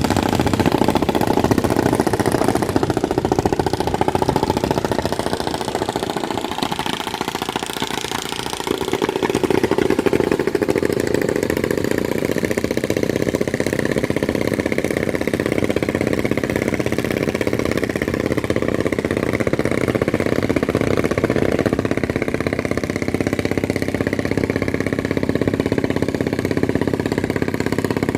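Boat engine running steadily, easing off briefly about six to eight seconds in and picking up again.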